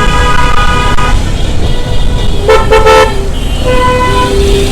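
Vehicle horns honking in road traffic: one horn held for about a second at the start, two short loud blasts about two and a half seconds in, and another horn near the end, over a steady low road rumble.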